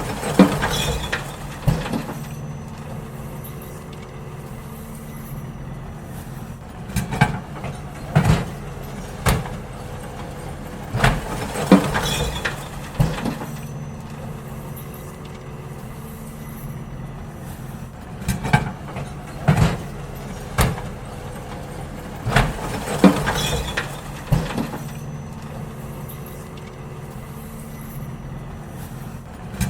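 Garbage truck running steadily while it empties bins, with clusters of loud bangs and clanks every several seconds as the bins are lifted, tipped and set back down.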